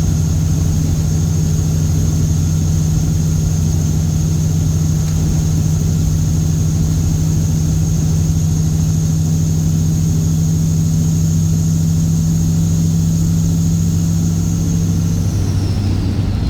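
Straight-piped Cat C15 ACERT diesel in a Kenworth W900 running at a steady engine speed, with a deep, even exhaust note. Near the end a high whine drops in pitch and the lowest part of the note fades.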